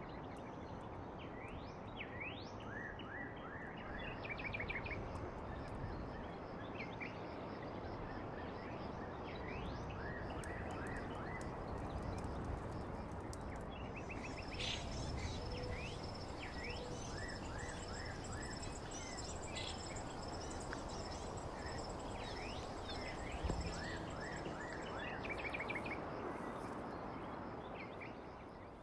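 Several birds chirping and trilling over a steady background hiss of outdoor noise, with a thin high repeated insect-like tone joining about halfway through.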